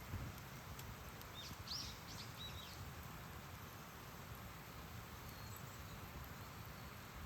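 A few short, high bird chirps about two seconds in, over a faint steady low rumble of background noise.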